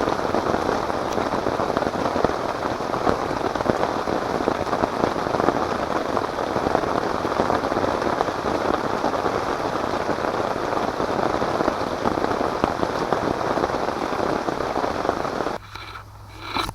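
Heavy rain falling, a dense, steady patter of countless drops. It cuts off abruptly near the end.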